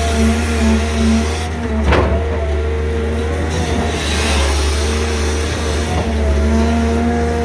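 Six-cylinder diesel engines of hydraulic excavators running steadily under digging load, with a sharp knock about two seconds in and a fainter one near six seconds.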